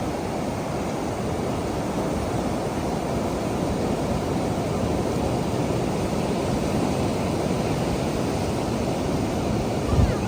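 Steady roar of sea surf mixed with wind on the microphone at the beach. A brief low thump comes near the end.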